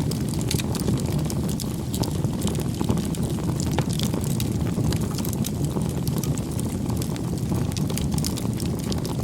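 Wood fire crackling: frequent small irregular pops and snaps over a steady low rumble of the flames.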